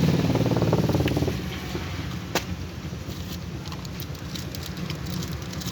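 A motor vehicle running close by on the road, fading about a second in, leaving a low rumble of traffic with a sharp click about two and a half seconds in.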